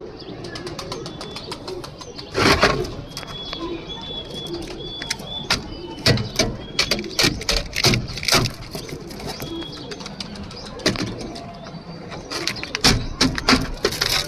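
Domestic pigeons cooing, with frequent sharp clicks and knocks; the loudest come about two and a half, six, eight and thirteen seconds in.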